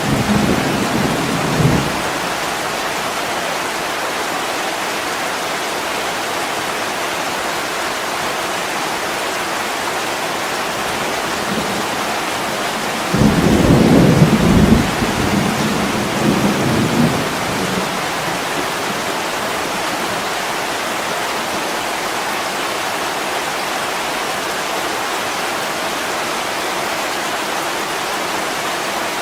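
Steady heavy rain pouring on a window, with rolls of thunder: a short one right at the start and a louder, longer one about halfway through.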